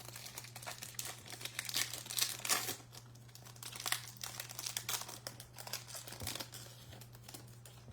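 Foil wrapper of a Topps Chrome trading-card pack being torn open and crinkled, an irregular run of crackles that thins out near the end.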